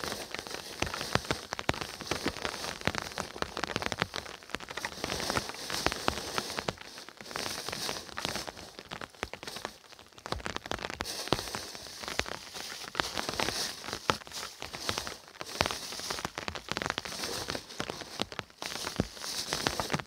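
Rain falling on a tree's leaves and ground, with many separate drops hitting close by, irregularly, over a steady hiss.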